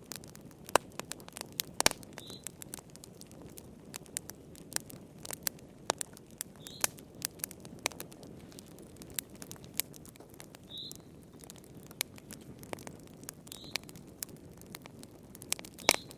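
Wood burning in a fireplace, crackling: irregular sharp pops and snaps, some loud, over the steady low rush of the flames.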